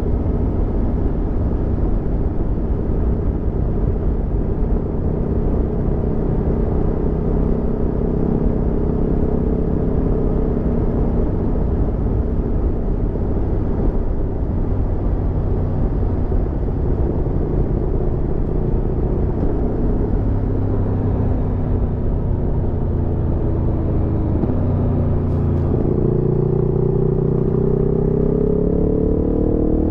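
Aprilia Tuono V4 motorcycle's V4 engine running under way, its note easing slowly lower for most of the stretch. About 25 seconds in the revs jump up and the note climbs steadily as the bike accelerates.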